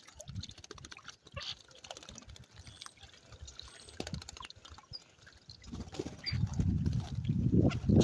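Water splashing and dripping as birds move about in it, with scattered small splashes that turn into louder, continuous splashing about six seconds in.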